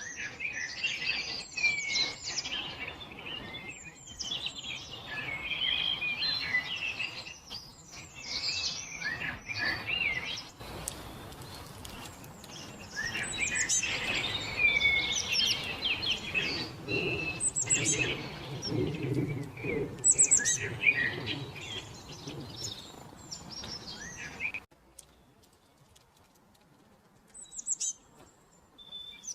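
Several songbirds singing and chirping at once, a dense overlapping chorus. It cuts off suddenly near the end, leaving only a couple of faint chirps.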